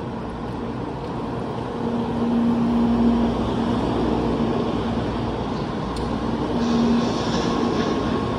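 N700A Shinkansen pulling slowly out of a station: a steady electric hum and running noise of the train moving along the platform, getting louder about two seconds in.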